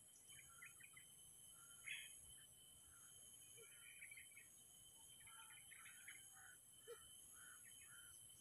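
Faint, scattered chirps and twitters of small birds over a near-silent background.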